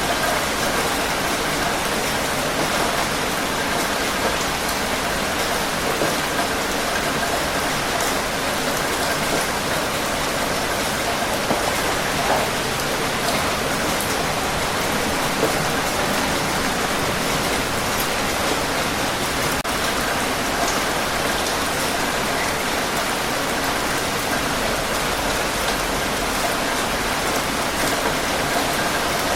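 Steady rain falling: an even hiss with occasional sharper ticks of single drops.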